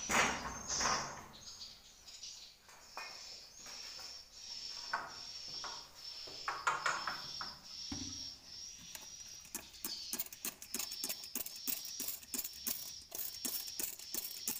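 Swiftlet calls: a high chirp repeating about once a second, with scraping and knocking in the first half and rapid clicking from about two-thirds in.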